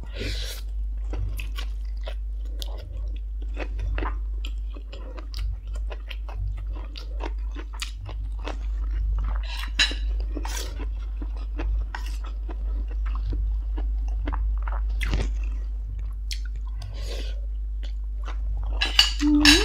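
A person chewing crisp food into a close clip-on microphone: many short, irregular crunches of crunchy vegetables with noodles. A steady low hum runs underneath.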